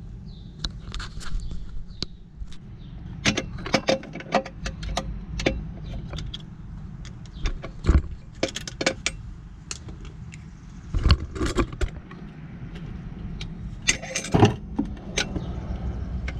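Irregular small metallic clicks and clinks of hand work: a hose clamp and tools being handled while a rubber bypass cap is fitted over the jet ski's spout hose port, over a steady low rumble.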